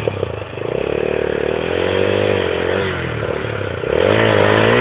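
Honda Tornado 250's single-cylinder four-stroke engine revving under load, its pitch rising and falling, climbing sharply about four seconds in.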